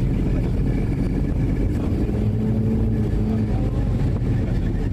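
Steady low engine and road rumble, as heard from inside a moving vehicle.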